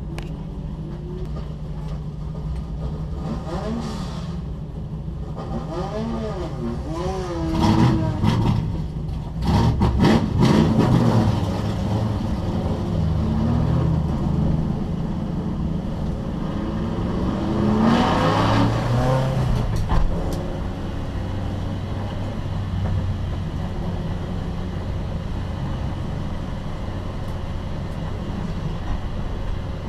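Classic race cars running on a circuit: engine notes sweep up and down as cars rev and pass, loudest after about eight seconds and again around eighteen seconds, over a steady low engine drone.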